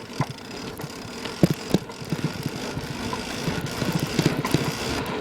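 Bicycle rattling and knocking over bumpy ground, heard through a camera taped to its frame: a steady rumble that grows louder, with irregular sharp clunks from the frame and chain.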